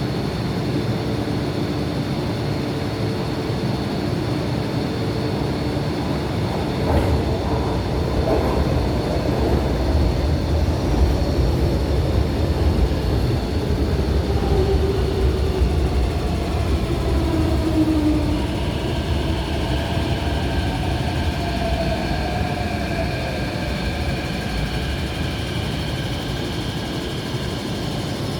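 MTR Kwun Tong Line C-train electric multiple unit moving at the platform: a steady rumble with whining motor tones that glide in pitch near the middle.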